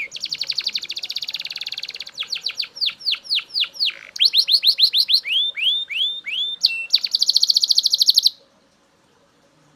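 Belgian canary singing in rolling tours of repeated notes: a fast trill, then runs of quick falling whistles, then rising-and-falling notes, and a final fast trill that stops abruptly about eight seconds in.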